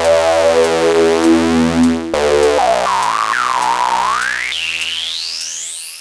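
Eurorack synthesizer tone through the Swenigiser Proto VCF/A voltage-controlled filter, driven hard for a gritty sound. A buzzy sustained note shifts about two seconds in. From halfway on, a whistling resonant peak sweeps down and up several times, climbing very high near the end.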